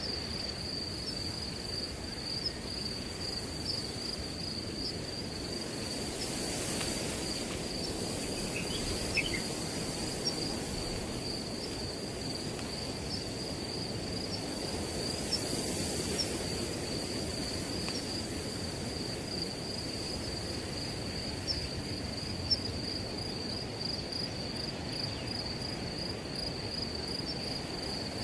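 Crickets trilling in an unbroken high-pitched chorus over a soft, even rush of wind through grass.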